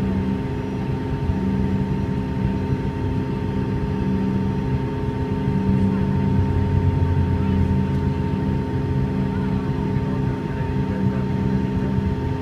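Cabin sound of a Bombardier CRJ-200 taxiing: its rear-mounted General Electric CF34 turbofans run at a steady low power, a constant hum with a steady mid-pitched whine over it.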